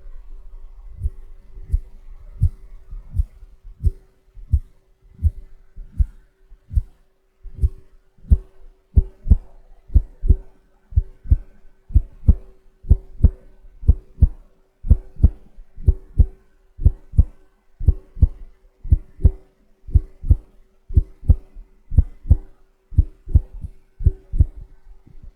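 Shaving brush brushed rhythmically against the microphone for ASMR: soft, muffled deep strokes at about two a second.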